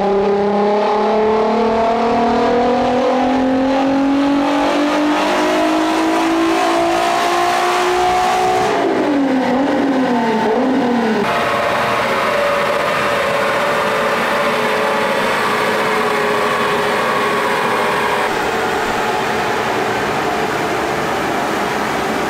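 Turbocharged 3.0-litre VR6 of a VW Golf 4 R32 at full throttle on a chassis dyno. The revs climb steadily for about nine seconds. The throttle then closes and the revs fall away slowly as the rollers coast down. This is a low-boost baseline pull on 0.6 bar wastegate spring pressure.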